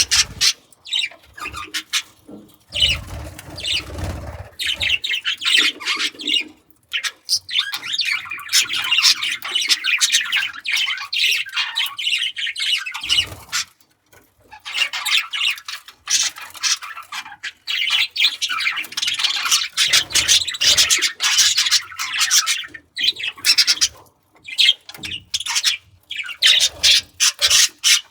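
Budgerigars chattering and warbling in long, fast runs of squawks and chirps. A few dull low thumps come a few seconds in.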